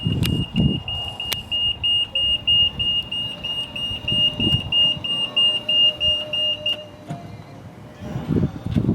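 High electronic beeping from a 2013 Star electric mini-truck, pulsing rapidly and cutting off about seven seconds in, over a fainter tone that rises slightly and a few dull low thumps.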